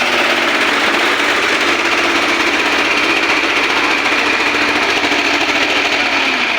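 Sonalika tractor's diesel engine running steadily with a fast, even clatter.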